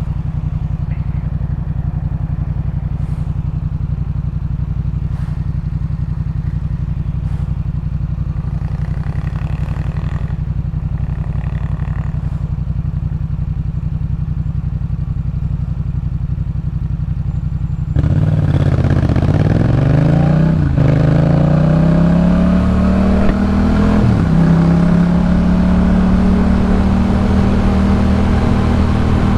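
Yamaha MT-07's parallel-twin engine through a Jeskap K4 full aftermarket exhaust, running steadily at low revs for a long stretch, then opening up louder: the revs rise, drop back twice at gear changes and settle into a steady higher-pitched run.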